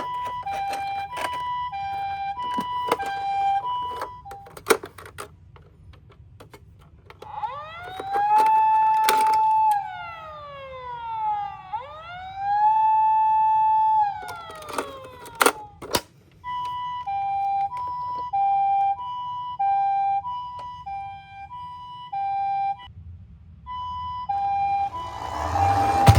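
Electronic sirens of toy emergency vehicles: a two-tone hi-lo ambulance siren, then a wailing siren that rises, holds and falls twice, then the two-tone siren again. Clicks and knocks of the toys come between the sirens, and a short burst of rushing noise comes near the end.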